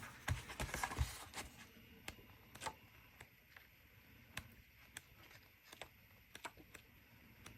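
Sheets of a thin 6x6 patterned paper pad being turned one after another, heard as faint, scattered soft clicks and paper flicks, bunched together in the first second or so and then coming every half second to a second.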